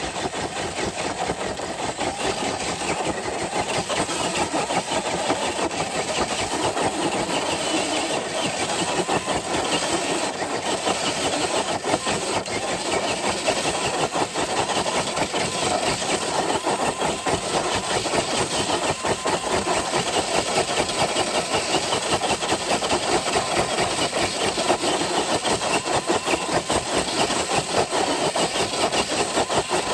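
Electric Traxxas TRX4 RC crawler truck pulling a weighted dead sled: its motor and drivetrain whir steadily under load, with a fast rattle.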